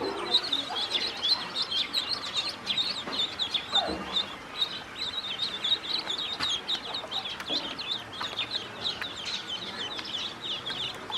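A flock of ducklings peeping nonstop, a dense chorus of short high peeps.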